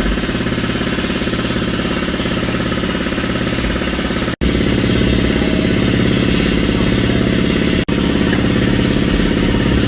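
A loud motor or engine running steadily with a rapid, even pulse, cutting out for an instant twice.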